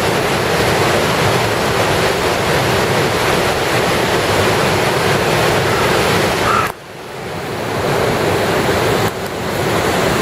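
Typhoon floodwater rushing over a river weir: a loud, steady wash of water noise. It drops off sharply about two-thirds of the way in and builds back up over a couple of seconds, then dips briefly once more near the end.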